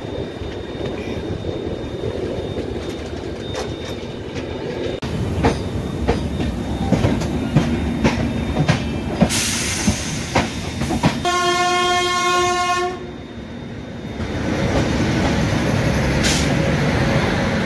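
Train running on the rails with the clickety-clack of wheels, getting louder as an electric locomotive passes close alongside on the next track. About two-thirds of the way through, a locomotive horn sounds once as a steady blast of about two seconds.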